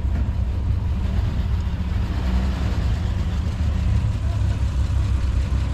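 Car engine running steadily at low revs, a deep low rumble as the vehicle is slowly manoeuvred.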